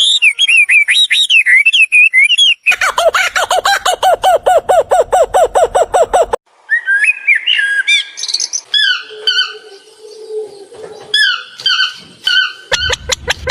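Birds calling in several abrupt segments: warbling chirps first, then a fast run of repeated calls of about five a second, then scattered varied calls, and a fast repeated run again near the end.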